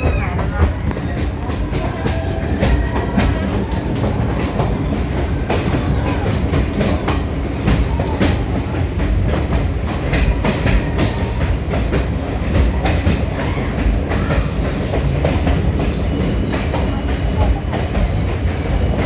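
A moving train heard from inside the carriage: a steady low rumble with an irregular clatter of clicks and knocks from the wheels running over the rails.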